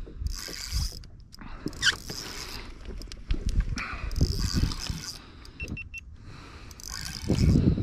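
Fishing reel whirring in short spells while a hooked trout is fought on light drag, with low knocks against the kayak.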